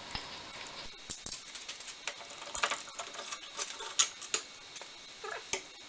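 Irregular metal clicks and light taps as the lathe's lead screw is drawn out of its bore through the carriage and gearbox. The clicks come in small clusters, scattered unevenly.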